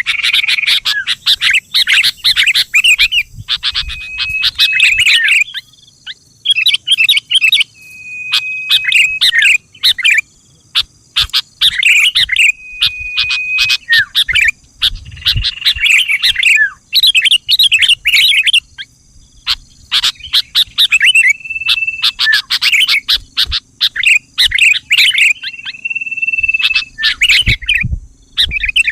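Sooty-headed bulbul (kutilang) singing in repeated bouts of quick, bubbly chattering phrases mixed with short held whistles, with brief pauses between bouts.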